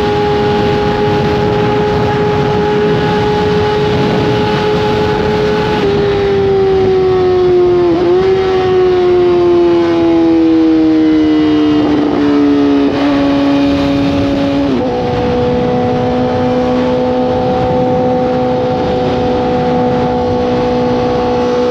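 Honda CBR1000RR inline-four sportbike engine running at a steady cruise, then its note falls over several seconds as the bike slows, with small jumps in pitch along the way, before settling into a lower steady drone. A steady rushing noise runs underneath.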